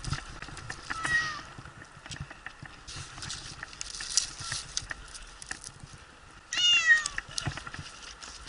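Domestic cat stuck high in a pine tree meowing in distress: a short meow about a second in and a longer, louder one about six and a half seconds in, with scratchy rustling and scattered clicks between them.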